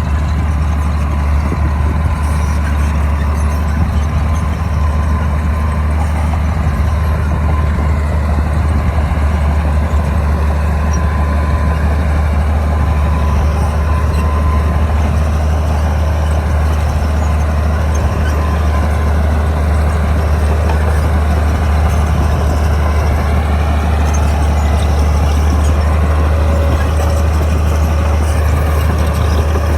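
Crawler bulldozer's diesel engine running steadily with a strong, even low drone.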